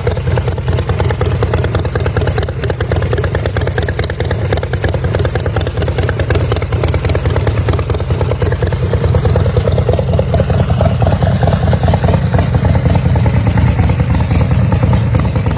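Custom Pro Street chopper's V-twin engine running steadily through its exhaust, loud and unbroken throughout.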